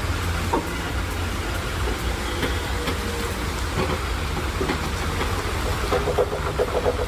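A heavy vehicle or machine running with a steady low rumble, with scattered knocks and clanks and a quick rattling run of knocks about six seconds in.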